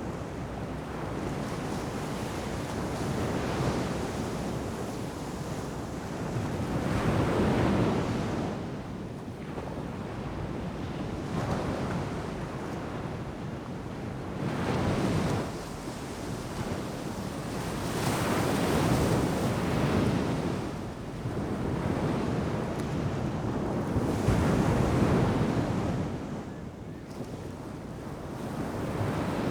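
Ocean surf breaking on a sandy beach: a steady wash of waves that swells and recedes every few seconds, with wind on the microphone.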